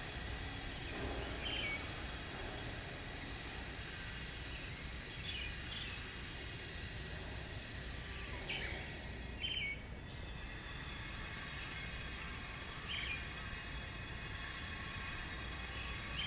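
Steady outdoor background hum and hiss, with a bird giving short, high chirps every few seconds.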